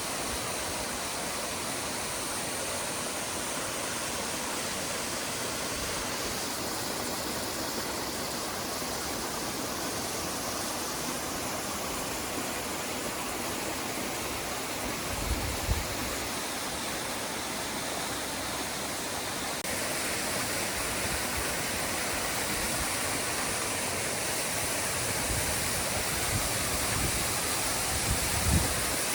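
Mountain waterfall: water rushing steadily over the rocks. A few brief low thumps come about halfway through and again near the end.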